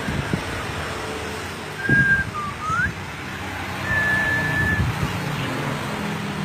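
Common iora whistling: a short flat note, then a quick rising note, then a longer steady whistle about four seconds in. A low steady rumble runs underneath.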